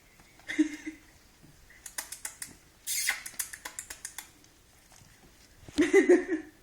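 Boxer puppy at play: a short squeal about half a second in and a louder, wavering squeal near the end, with a run of quick clicks and scratching between them.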